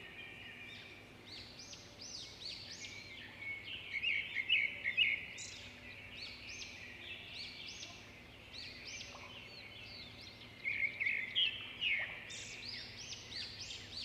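Small birds chirping: many short, arching chirps overlapping one another, with louder bursts about four seconds in and again about eleven seconds in.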